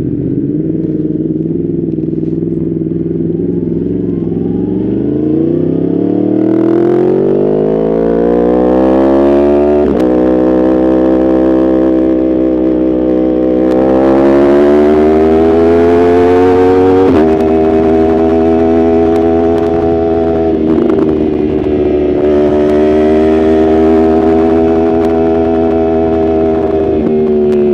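Yamaha R1 inline-four sport-bike engine under hard acceleration. The engine note climbs steadily in pitch, drops sharply at an upshift about ten seconds in, climbs again to a second shift around seventeen seconds, then holds fairly steady with brief dips.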